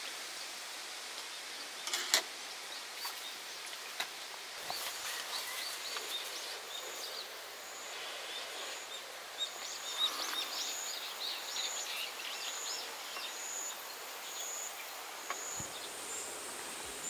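Outdoor ambience: small birds chirping over a steady background hiss, with a few sharp taps and a high repeated trill in the second half.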